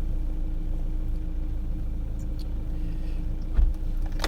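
Steady low hum of a car's engine running, heard from inside the cabin, with one soft thump a little before the end.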